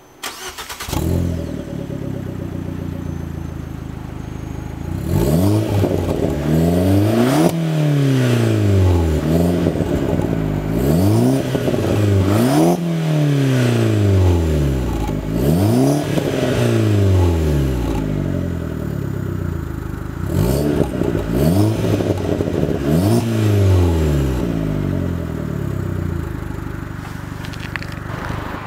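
Abarth Grande Punto's 1.4 T-Jet turbocharged four-cylinder through a hand-built stainless steel sports exhaust: it starts up, idles, then is revved in a series of quick blips that climb and fall back to idle, settling to idle near the end.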